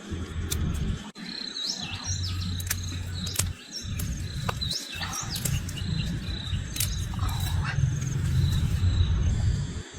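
Small birds chirping in short, repeated calls over background music with a heavy low end. A few sharp clicks are scattered through.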